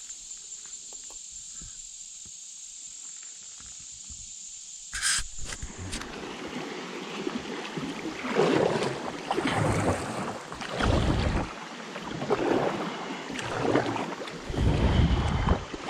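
Insects buzzing in one steady high-pitched note for about five seconds, then an abrupt change to water splashing from kayak paddling, with gusts of wind buffeting the microphone.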